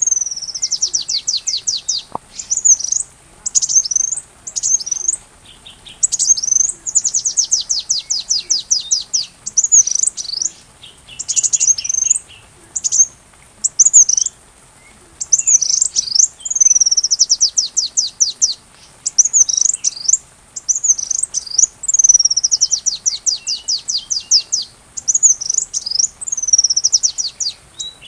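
Sunbird (kolibri) singing a shrill, high-pitched song in quick phrases with short pauses between them, many phrases a fast run of sharp notes dropping in pitch.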